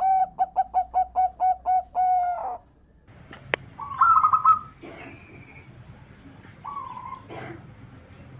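Zebra dove (perkutut) song: a quick staccato run of about eight short coos, then a longer drawn-out note. A sharp click comes about three and a half seconds in, followed by a few shorter, higher bird calls.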